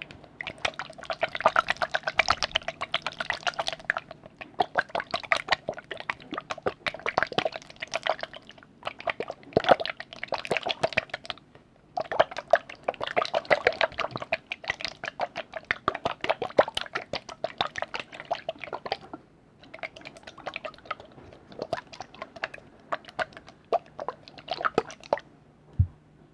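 Liquid being worked close to the microphone for ASMR: rapid wet clicks, drips and small splashes in bursts of one to three seconds with short pauses between.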